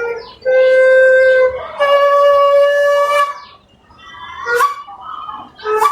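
Two long, steady flute notes, the second slightly higher than the first, played as a call for a bird to come. A few short sounds follow near the end.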